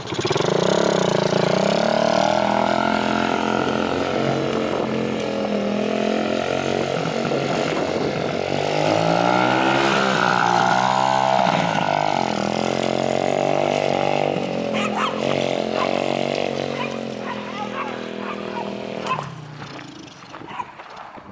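Chinese minibike engine running as it is ridden, its pitch rising and falling with the throttle, then dropping away near the end.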